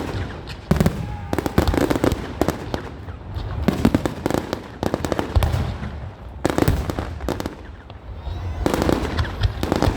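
Fireworks display: aerial shells bursting in quick succession, a rapid run of bangs and crackles broken by short lulls.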